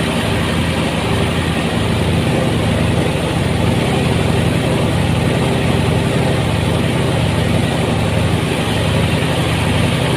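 Engine-driven rice threshing machine running steadily, a constant engine drone with the rattle of the threshing drum.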